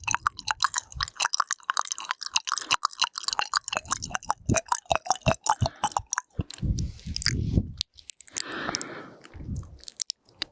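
Wet ASMR mouth sounds close to the microphone: rapid clicking and smacking of the tongue and lips for about six seconds, then slower breathy puffs and exhales.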